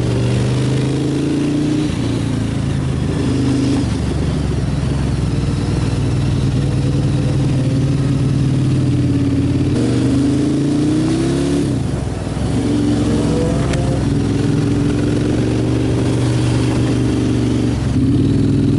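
Sport motorcycle engine running at road speed under a steady rush of wind noise. The engine note holds, rises and falls as the revs change, and briefly drops and picks up again about twelve seconds in.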